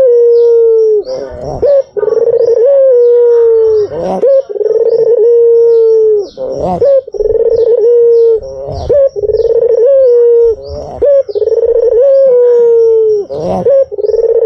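White Barbary dove (puter putih) cooing over and over, loud: each coo is a short rough note followed by a long, drawn-out steady hoot that dips slightly at the end, repeating about every two seconds.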